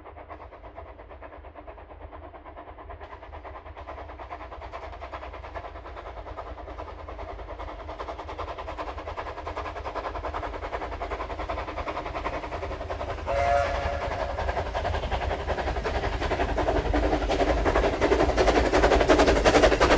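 A train approaching, its fast steady clatter growing gradually louder, with a short pitched whistle blast about two-thirds of the way through.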